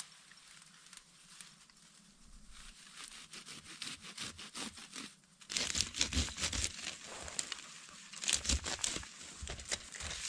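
Irregular crackling and crinkling, like something being handled or trampled, fainter at first and louder and denser from about halfway through.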